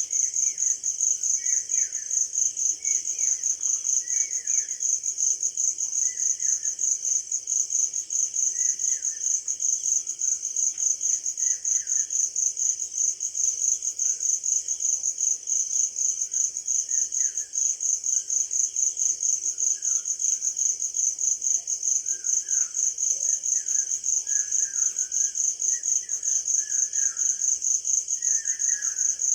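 Crickets chirping in a steady, fast pulsing trill, several pulses a second, with scattered short chirps of small songbirds that come more often near the end.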